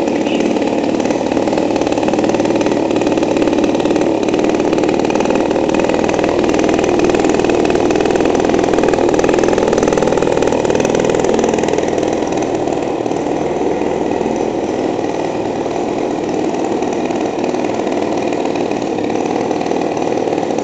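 50 cc two-stroke model-aircraft engine spinning the propeller of a motorized bicycle, running steadily. It picks up a little in speed and loudness partway through, then eases back.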